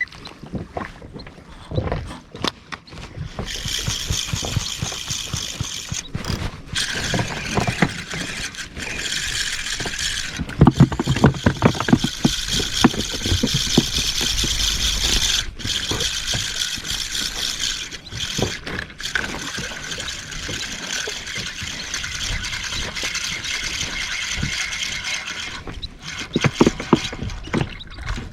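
A fishing reel winding in line with a steady whirr that starts a few seconds in and stops near the end, over irregular rattling and scraping knocks on the boat.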